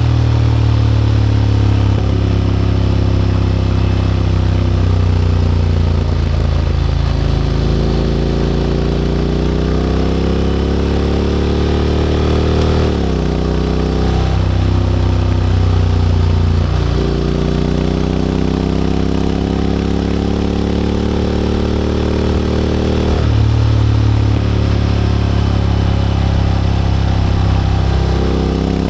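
Honda X-ADV 750's parallel-twin engine running through an SC-Project titanium slip-on exhaust while riding. Its note climbs and falls back sharply several times in the middle, then runs steadier, with a higher jump near the end.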